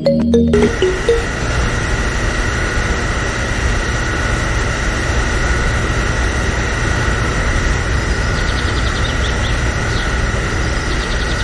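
Steady mechanical running noise with a constant high whine and a low hum, starting just after a short music ending.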